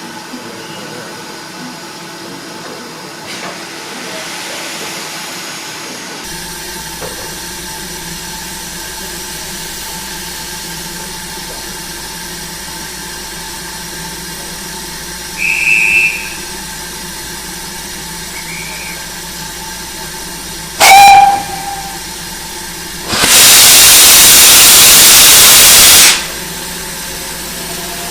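Steam locomotive standing with a steady background hiss. A short high whistle sounds about halfway through, then a brief sharp whistle toot, then a loud blast of escaping steam hisses for about three seconds.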